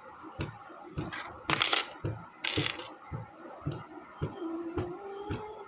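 Small metal construction-kit parts, strips, nuts and bolts, clicking and clinking as they are handled and fitted together, with two short scraping rustles about one and a half and two and a half seconds in.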